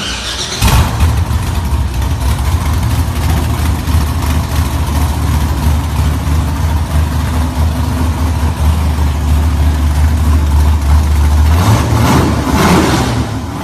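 Car engine idling with a deep, steady low rumble, picking up near the end.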